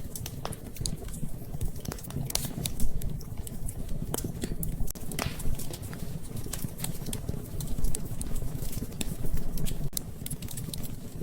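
Wood fire crackling in a fireplace: irregular sharp pops and snaps over a low steady rumble of flames.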